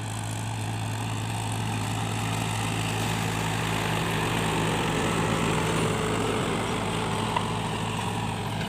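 Tractor engine running steadily under load, a constant low drone that grows somewhat louder toward the middle and eases off near the end.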